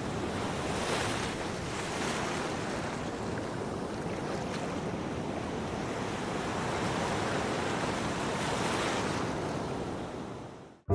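Sea waves breaking and washing in, a rushing surf that swells in repeated surges, with some wind, fading out near the end.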